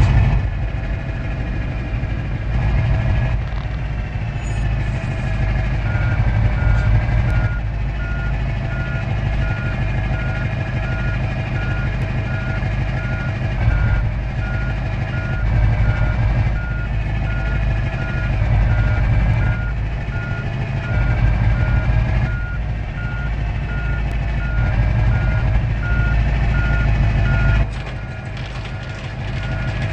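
A truck's engine running with a steady rumble, joined about six seconds in by a reversing alarm beeping evenly, about two beeps a second, which stops shortly before the end.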